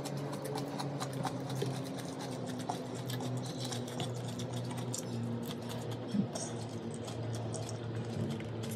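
Close-up chewing and lip-smacking from someone eating with the fingers: many quick, wet mouth clicks over a steady low hum.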